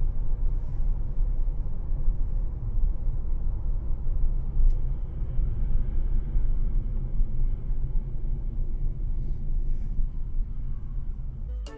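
Steady low rumble of a moving vehicle, road and engine noise heard through a dashcam's microphone.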